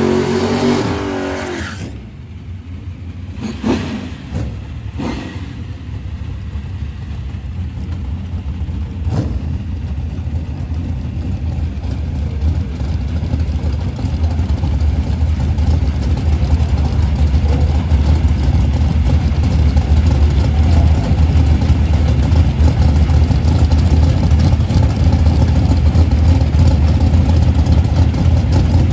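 Drag-racing car engines. A revving engine fades away in the first couple of seconds, a few short knocks follow, then a deep engine rumble builds and holds steady and loud.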